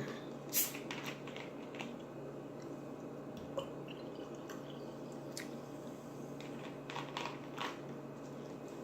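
Close-up wet chewing and lip smacking, with scattered short mouth clicks over a faint steady hum.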